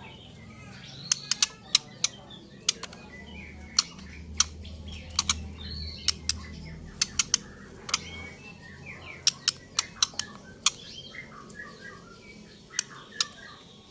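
White-rumped shama (murai batu) singing in the trotol style: sharp, loud staccato notes fired off irregularly, one after another, amid short warbled chirps.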